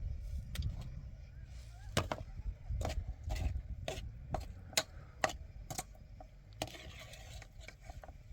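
A series of sharp knocks or taps, roughly two a second through the middle and thinning out near the end, over a low rumble.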